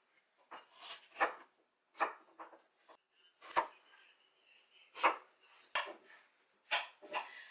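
Irregular single knocks and clatters of kitchen items being handled, about one every second.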